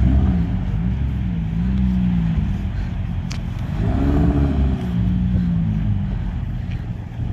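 Sports car engine revving: the pitch climbs at the start, then holds and wavers, and a bigger rev climbs and falls back about four seconds in.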